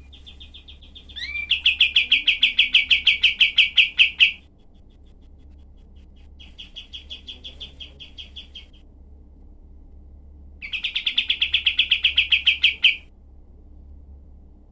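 Kapas tembak singing: three bursts of rapid, sharp trilled notes, about six a second, the middle burst quieter than the other two.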